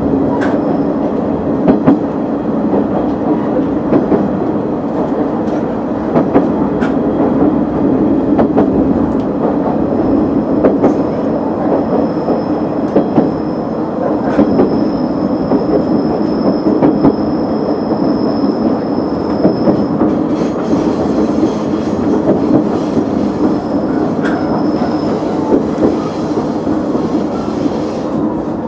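KiHa 100 diesel railcar running along the track, heard from the cab: a steady engine hum with recurring clicks from the wheels over rail joints. A thin high tone holds for several seconds midway.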